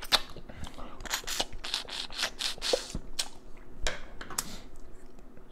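Cooked Dungeness crab shell cracking and snapping as it is broken apart: a steady run of sharp crackles and clicks.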